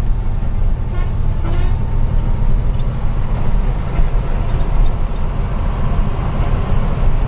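Heavy truck's engine running steadily with road rumble, heard from inside the cab.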